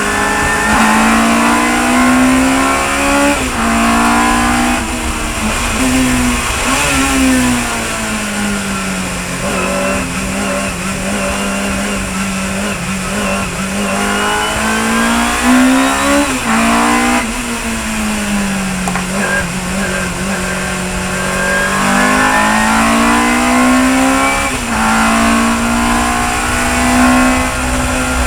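Chevron B19 sports racing car's engine at full race pace, its note climbing as it accelerates through the gears, then dropping away and blipping as it slows for corners, several times over, with a steady hiss of noise over the engine.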